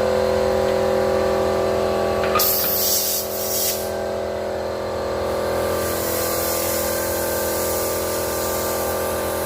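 Short hiss of air escaping at a pressure tank's air valve as a tyre-style pressure gauge is pressed on to read it, a bit over two seconds in, followed by a softer hiss, over a steady machine hum with several fixed tones.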